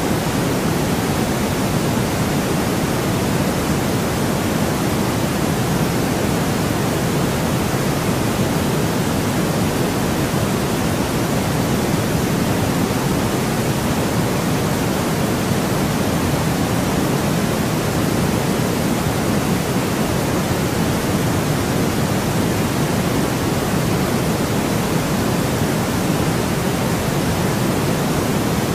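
Steady, unbroken synthetic noise of the kind sold as white noise for sleep. Its energy is weighted toward the low end, so it sounds more like a soft pink-noise hush than a bright hiss.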